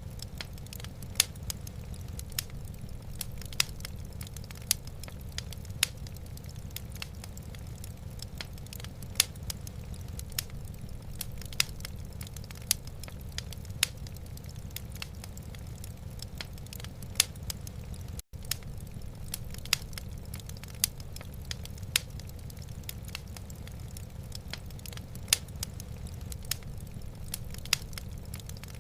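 Wood fire crackling in a fireplace: sharp, irregular pops of burning logs over a steady low rumble. The sound cuts out for an instant about two-thirds of the way through.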